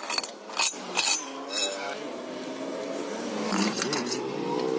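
Sharp metallic clinks and knocks, several in the first couple of seconds, over a steady pitched hum that grows louder and rises in pitch near the end.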